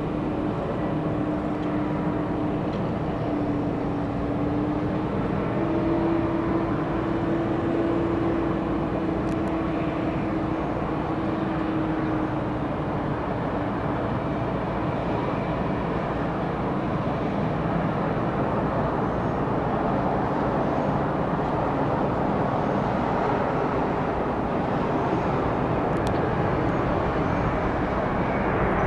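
Jet airliner engines running steadily, a continuous rumble with a low hum that shifts slightly in pitch over the first dozen seconds and then fades into the noise.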